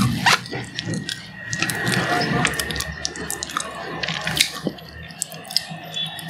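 Close-miked mouth sounds of chewing: many small, irregular wet clicks and smacks.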